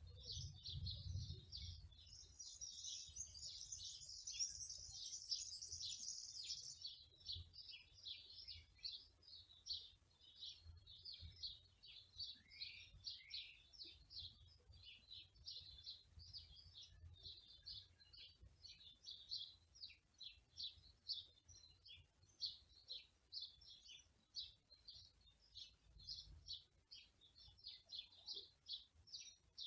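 Small songbirds chirping rapidly and without pause in short high notes, with a denser, higher trill from about 2 to 7 seconds in.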